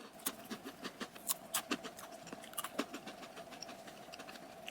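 Crunchy chewing of a chocolate coconut crunch snack with coconut flakes, puffed rice and sunflower seeds: many irregular crisp crackles.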